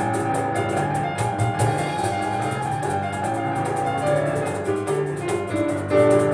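Live instrumental music: fast piano playing over a rapid cajón beat.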